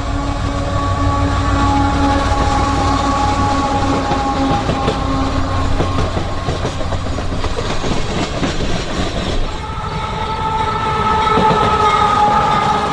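Freight locomotive air horn sounding over the rumble and rail clatter of a passing train. The first horn blast fades out about halfway through, and a second long blast starts near the end.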